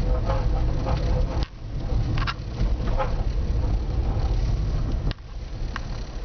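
Chevrolet Celta moving slowly, a low rumble heard from inside the car with sharp intermittent clicks and knocks from the rear. The knocking is an unidentified rear noise that appears at low speed and when the right side of the car is pressed.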